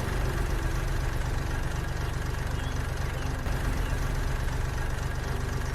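Engine idling with a steady, fast chugging knock, in the manner of a diesel tractor.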